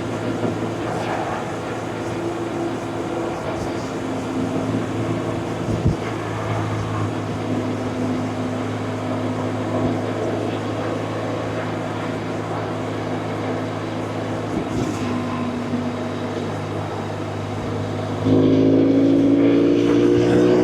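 BMW R1100RT's air/oil-cooled boxer twin running at a steady cruise, with a low, even pulse. About 18 seconds in, the throttle opens: the engine gets suddenly louder and its pitch climbs as the bike accelerates.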